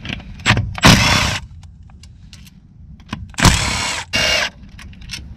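A power tool spins in three short runs of about half a second each, with small metallic clicks between them, as bolts are backed out of the E36 engine's rear main seal housing.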